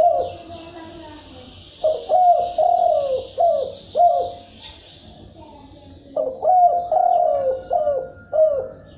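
Spotted dove cooing: two full phrases of several falling coos each, the first about two seconds in and the second about six seconds in. A faint steady hiss sits behind the first five seconds.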